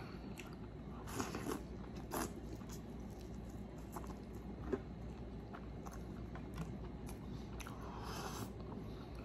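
Biting into and chewing a crispy, deep-fried breaded king crab leg: scattered soft crunches and crackly clicks of the batter crust.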